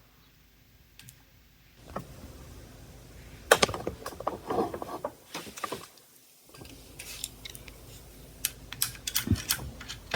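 Clicks and light rattling of the ELNA Diva sewing machine's parts as they are handled and adjusted: a cluster of clatter around four seconds in, then a quick run of sharp clicks near the end.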